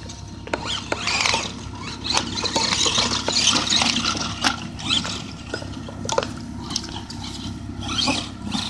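Tamiya Monster Beetle RC truck with an HPI Firebolt 15-turn brushed electric motor, which the owner calls a little worn down, driving through wet mud. The motor and drivetrain whine swells and fades with the throttle, with scattered clicks throughout.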